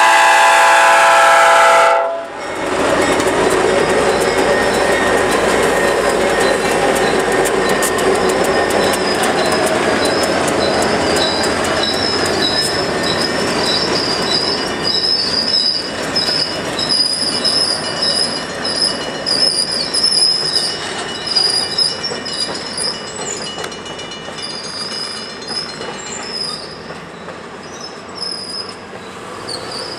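Nathan Airchime P5 air horn on an EMD GP30 locomotive sounding a multi-note chord, cutting off about two seconds in. Then the locomotive and its empty fertilizer hopper cars roll past: wheels click over the rails and flanges squeal with a wavering high whine. The sound fades as the train moves away near the end.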